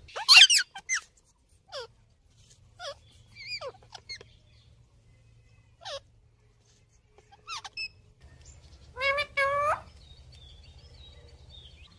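Ringneck parrot calling: a loud run of short, falling calls at the start, then scattered single chirps, and two longer, harsher calls about nine seconds in.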